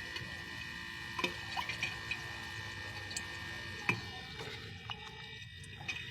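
Refrigerator compressor running with a steady high-pitched hum and irregular crackling pops from inside, a sizzle like frying chicken; an abnormal internal noise although the compressor still runs at full capacity.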